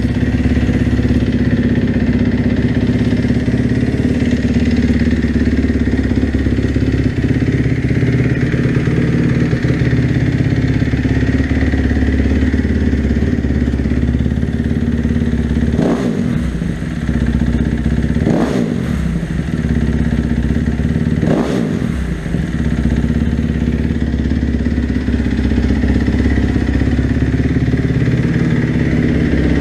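2012 Kawasaki KX250F's single-cylinder four-stroke engine, with an FMF PowerCore 4 slip-on exhaust, idling on a cold start. It is blipped three times about halfway through, each a quick throttle snap whose revs shoot up and fall straight back to idle.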